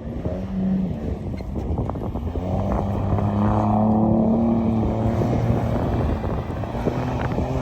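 Ford Raptor pickup's engine running under load, its pitch rising and falling slowly as the revs climb and ease off.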